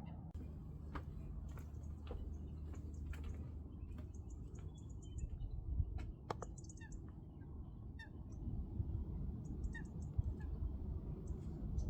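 Wild birds calling and chirping, many short high calls scattered throughout, over a steady low rumble with a few sharp clicks.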